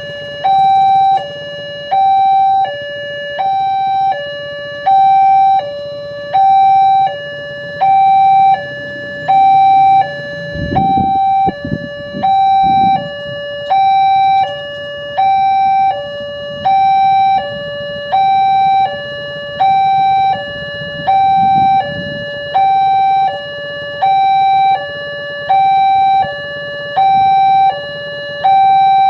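Indonesian railroad crossing warning alarm sounding a loud two-tone electronic signal, alternating evenly between a higher and a lower tone about every half second: the sign that a train is approaching and the barrier is closing or closed. Brief low rumbles come through a little after ten seconds in and again around twenty-two seconds.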